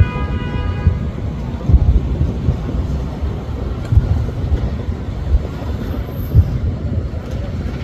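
Distant fireworks going off in irregular low booms, about every two seconds, over a steady low rumble. A horn-like tone fades out in the first second.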